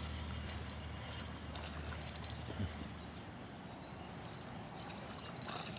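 Fishing reel faintly cranking as a crappie is reeled in, with scattered light clicks and a low hum that stops about three seconds in.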